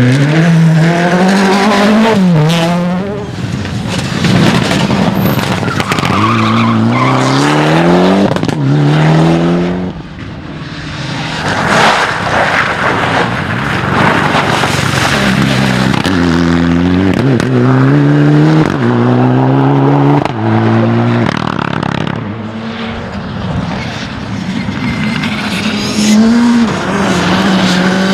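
Rally cars accelerating hard, the engine note climbing through the gears in quick upshifts again and again, with stretches of rushing tyre and road noise between the runs.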